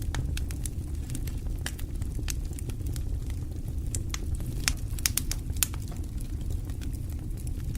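Wood fire burning in a fireplace: a steady low rumble of flames with irregular sharp crackles and pops, a cluster of louder pops about five seconds in.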